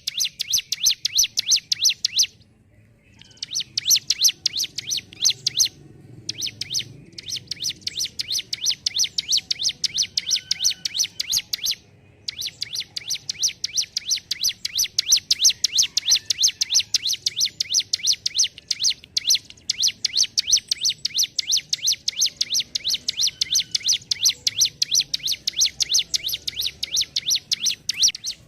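Ciblek gunung, a prinia, singing in its 'ngentrok' style: long runs of rapid, evenly repeated sharp notes, broken by a few short pauses.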